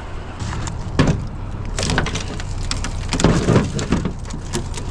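Irregular knocks and clatter of scrap being handled and broken apart by hand, over a steady low hum.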